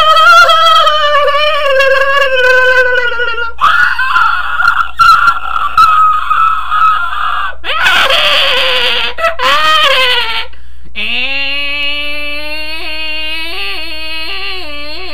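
A person's voice making long, drawn-out squealing and yowling cries, four in a row: a high cry that slowly sinks in pitch, two rougher, strained ones, then after a brief break a long, lower cry that wobbles in pitch near the end.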